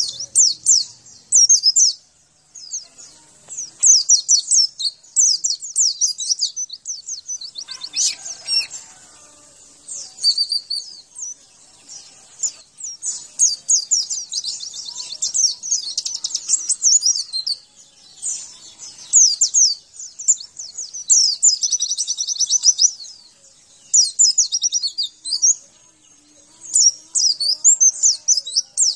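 White-eye (pleci) song: rapid, high-pitched twittering phrases, each a second or two long, repeated with short pauses. It is a masteran training recording of the kind played to a caged bird that has stopped singing, to get it to answer and sing again.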